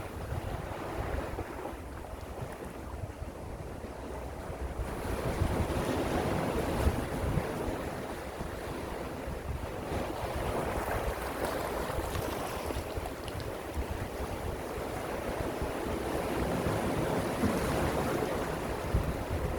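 Gentle sea waves washing in, swelling and easing every few seconds, with wind rumbling on the microphone.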